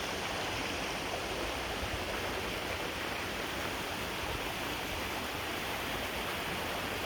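A small waterfall on a creek running hard with spring meltwater: a steady, even rush of falling water.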